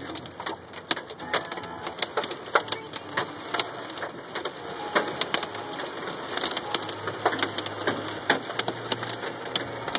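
Hailstones striking a car's body and glass: a dense, irregular clatter of sharp hits.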